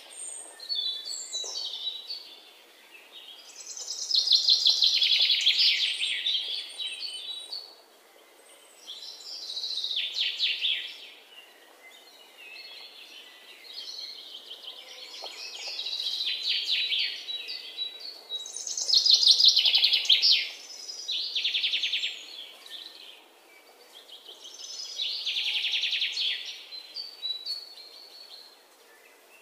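Birds chirping in rapid trilled phrases, each a second or two long, coming again every few seconds.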